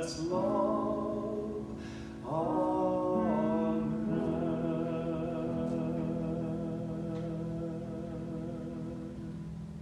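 The close of a sacred song: singing with vibrato over accompaniment, moving through a few chords, then a long final chord held and slowly fading.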